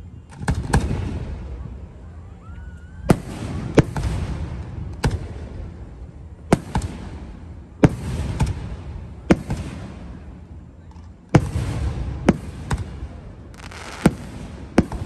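Aerial firework shells bursting overhead: about fifteen sharp bangs at irregular intervals, roughly one a second, each trailing off into rumble and crackle.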